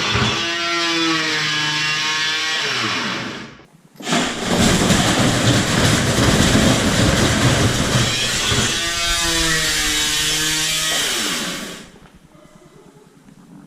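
Whirlpool front-load washing machine in a violent, unbalanced spin, its cabinet shaking and rattling loudly. A whine glides downward twice. The noise cuts out briefly just before four seconds in and dies down about twelve seconds in.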